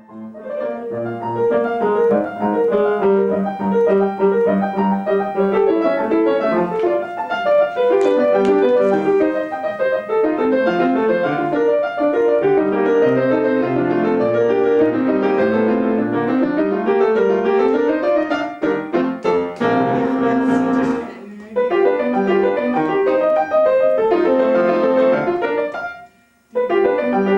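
Solo piano passage played with the sustain pedal: dense chords and running figures, with a long rising run partway through, a short break about two-thirds in and another near the end. The pedal is held deep enough in places that the teacher finds the sound too thick.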